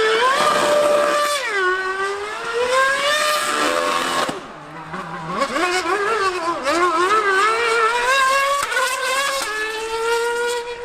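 A 2013 Formula One V8 car and a Yamaha R1M 1000cc superbike racing past at high revs. The engine pitch climbs and drops sharply again and again with gear changes and throttle lifts. It fades for about a second midway, then picks up again.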